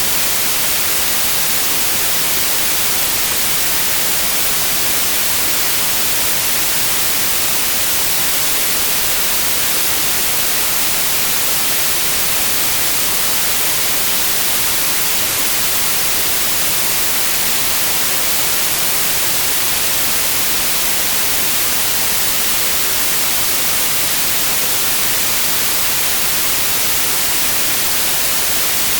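Steady, unbroken white noise: an even hiss across all pitches, brightest in the highs.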